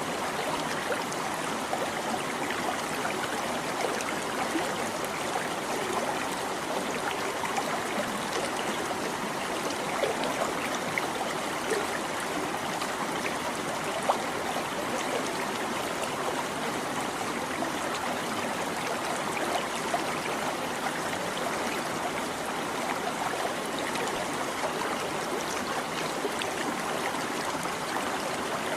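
Babbling brook: shallow running water trickling and splashing steadily without a break.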